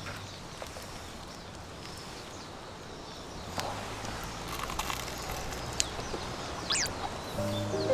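Outdoor ambience: a steady low hiss with scattered faint clicks and rustles, and a single brief falling bird chirp about seven seconds in. Background music comes back in just at the end.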